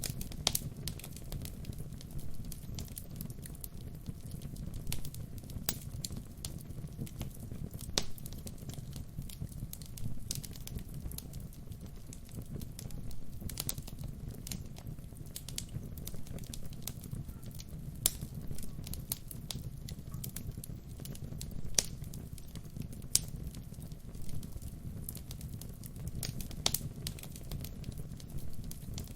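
Wood fire crackling, with sharp pops and snaps at irregular moments over a low, steady rumble of the flames; a few pops, near 8, 18 and 22 seconds, stand out louder.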